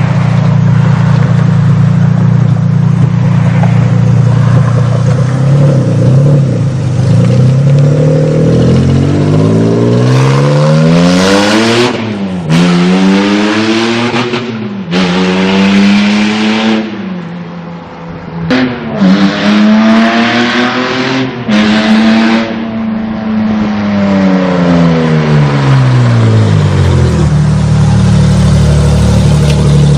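Car engine idling, then revved up and let fall several times, its pitch climbing and dropping, before settling back to a steady idle near the end.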